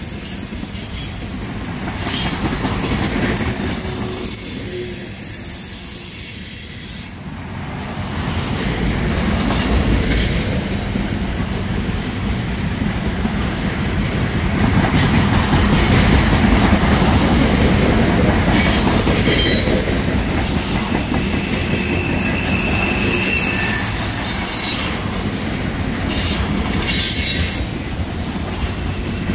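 Freight train of trash containers on flatcars rolling past close by: a steady rumble of steel wheels on rail with clatter over the joints, and high-pitched wheel squeals near the start and again a little over 20 seconds in.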